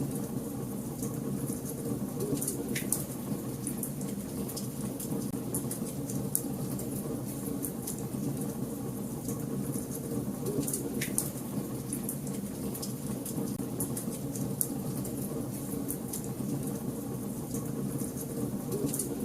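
Wood fire burning in a fireplace: a steady low rush of flames with frequent sharp crackles and pops from the burning logs, two of them louder, about three and eleven seconds in.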